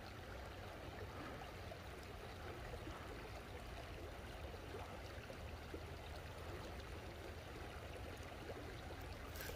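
Creek water running over a riffle: a faint, steady rush, with a few sharp clicks at the very end.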